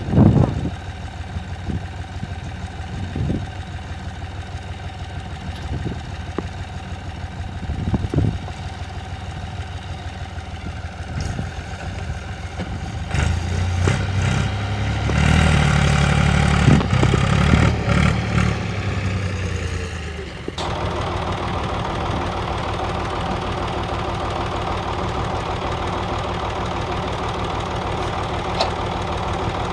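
Ursus 3512 tractor's three-cylinder diesel running, with a few knocks early on. About halfway through the engine works harder and louder for several seconds, then drops suddenly to a steady, even running note.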